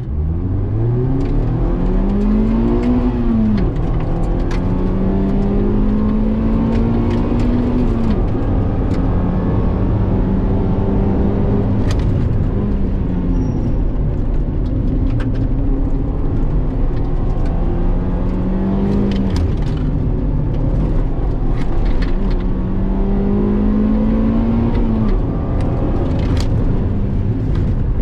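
A car engine pulled hard at high revs and eased off again and again, its pitch climbing and then dropping sharply several times, as at each gear change or corner on a circuit lap. Scattered short clicks and knocks run over it.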